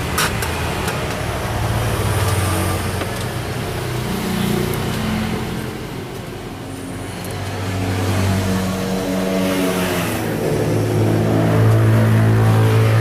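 Small generator set's engine running, its speed rising and falling. It eases off about six seconds in, then picks up and runs steadier and louder near the end.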